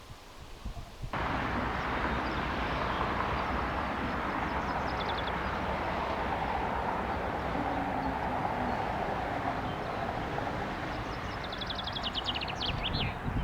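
Jet airliner engine noise, a steady, loud, even rushing sound that cuts in suddenly about a second in. Short high chirps, like small birds, come through twice over it.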